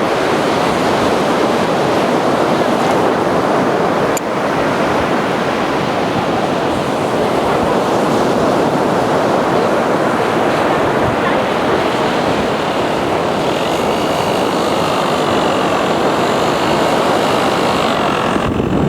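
Steady rush of strong wind on the microphone mixed with beach surf. From about two-thirds of the way in, a faint high whine joins it: the electric motor of the Parkzone Typhoon 3D RC airplane flying overhead.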